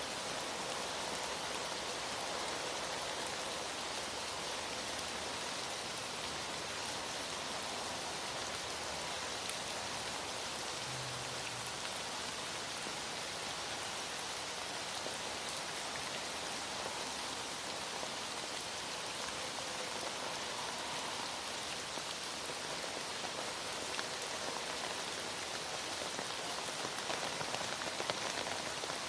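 Heavy rain falling steadily, a constant hiss of many drops on a surface.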